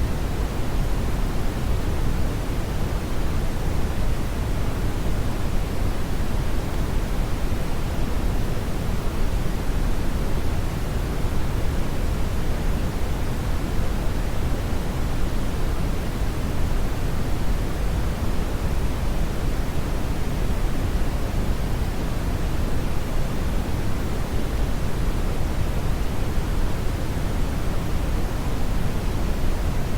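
Steady brown noise: an even, unchanging hiss weighted heavily toward the deep end, falling off toward the highs.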